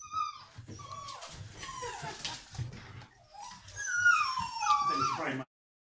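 Dalmatian puppy whining: a run of high-pitched, falling whimpers that grow longer and louder near the end, then stop abruptly.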